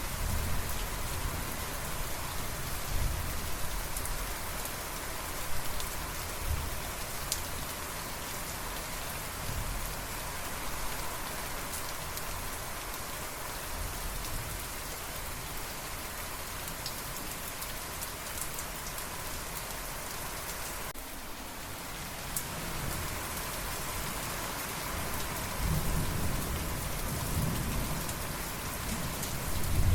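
Steady rain falling, with scattered sharp drip ticks and low rolls of thunder. The rumble grows stronger in the last few seconds.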